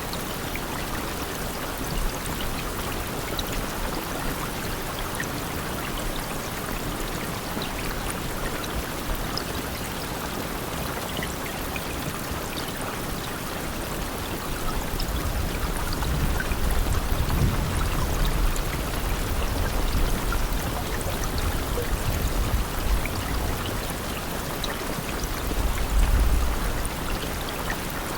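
Steady rain falling, with scattered drops. A low rumble swells in about halfway through and stays to near the end.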